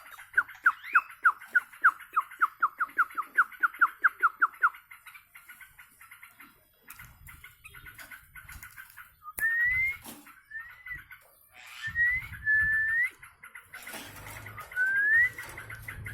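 Sooty-headed bulbul (kutilang) calling: a fast run of short repeated notes, about five a second, that stops about five seconds in. After a pause come a few separate whistled notes, mostly rising, with some low rumbling noise.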